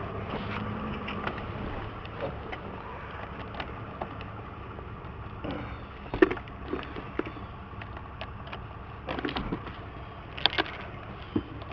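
Scattered light clicks and knocks from keys and a van's door and interior being handled, over a steady low rumble. Most of the clicks come in the second half.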